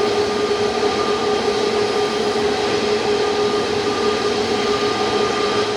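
Boeing 777-300ER's GE90 jet engines running close by: a steady, loud rushing noise with a held whine.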